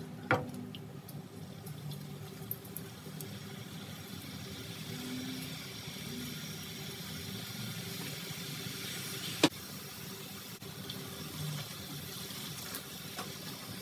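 Gram-flour (besan) batter frying in hot oil as boondi, a steady soft sizzle that gets a little stronger a few seconds in, over a low steady hum. A sharp tap comes just after the start, and a louder one about nine and a half seconds in.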